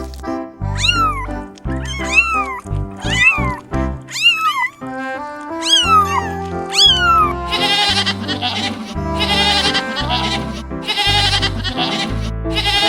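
Animal calls over background music: six separate high cries, each rising then falling in pitch, follow one another about a second apart. From about eight seconds in they give way to bouts of quavering, bleat-like calls.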